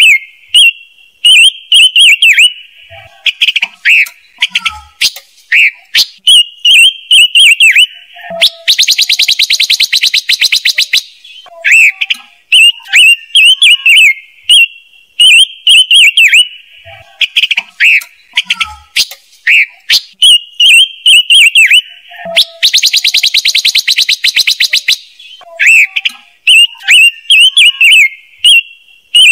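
A looped recording of the songbird sold as the 'ngũ sắc' bird, used as a lure for bird-trap speakers. Short, sharp whistled call notes repeat throughout, broken twice by a fast, dense chattering trill about two and a half seconds long. The sequence repeats like a loop and is played loud.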